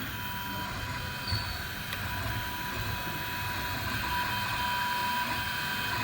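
3D printer running, its stepper motors giving a steady whine with several held tones over a low rumble, slowly getting louder.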